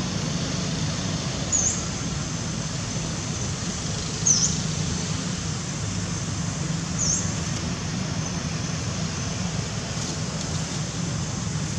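Three short, sharp, high chirps from a small bird, spaced a few seconds apart, over a steady low outdoor rumble.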